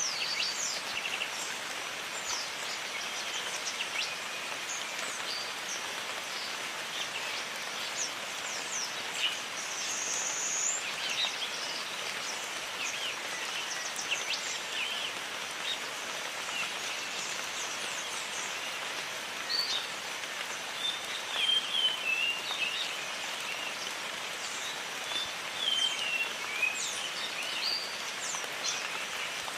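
Steady rain falling in a jungle, with many birds chirping and whistling over it in short calls, and a few longer warbling phrases.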